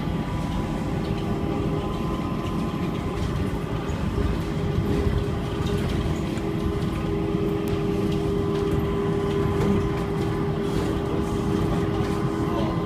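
Inside the car of an automated airport people-mover train running between stations: a steady rumble of the running gear with an even, high motor whine over it.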